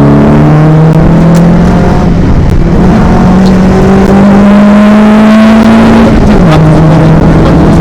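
VW Golf GTI Mk1 rally car's four-cylinder engine heard from inside the cabin, pulling hard with its note rising slowly for about five seconds. The note then drops sharply as the car shifts up a gear, and the engine pulls on.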